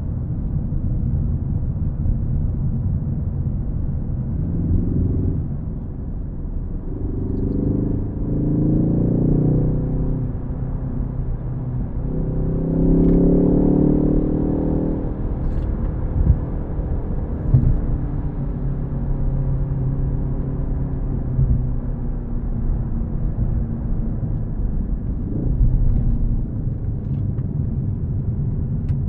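Ford Focus ST engine pulling hard under acceleration twice, its pitch climbing each time, over a steady low rumble of road and tyre noise, then easing back to a steady cruise.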